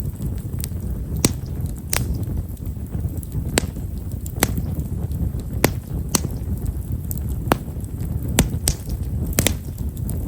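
Bonfire of himeshara (Japanese stewartia) firewood crackling: sharp, fine pops come irregularly, about one a second, over a steady low rumble.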